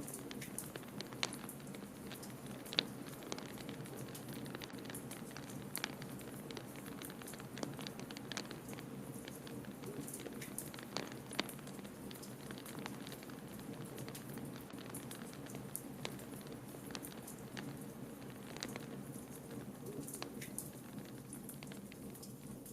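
Wood fire crackling in a fireplace: irregular sharp pops and snaps over a steady low rumble of noise.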